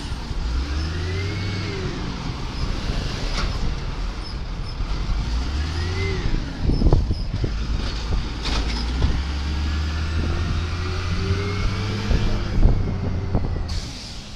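Cat 3126 diesel engine of a Peterbilt 320 automated side-loader garbage truck running, revving up and back down three times, with a sharp knock about seven seconds in.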